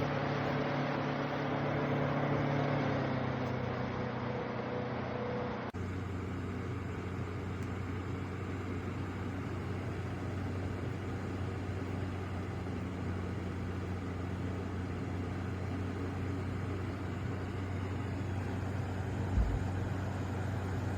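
Small portable air-cooler fan running with a steady whir and motor hum. About three seconds in the hum drops in pitch, and a few seconds later the sound changes suddenly to a lower, steadier hum; there is a brief low thump near the end.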